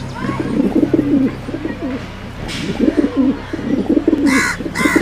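Pigeons cooing: low, warbling coos in two bouts, with two short, higher-pitched bird calls near the end.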